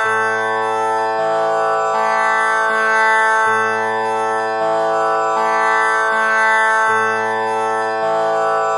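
Tanpura drone tuned to A, its strings plucked one after another in a cycle that repeats about every three and a half seconds, the notes overlapping into one steady sustained drone.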